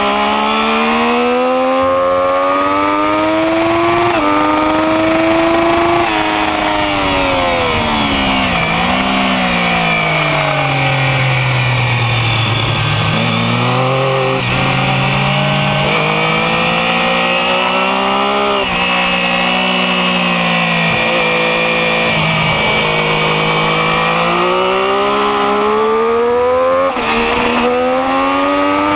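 Sport motorcycle engine at racing speed, recorded on the bike itself. Its pitch climbs in steps with a quick drop at each upshift, falls away as the rider slows and downshifts into a slow corner about a third of the way in, then climbs through the gears again.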